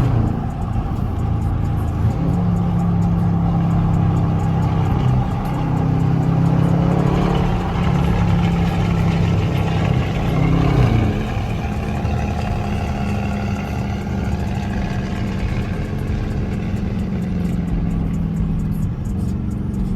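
Dodge Scat Pack's 392 HEMI V8 running as the car drives, its note rising and falling with the throttle and dropping sharply about eleven seconds in.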